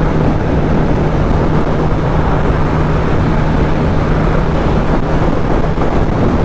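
Kawasaki ZX-10R inline-four engine running steadily at cruising speed, under loud wind rush.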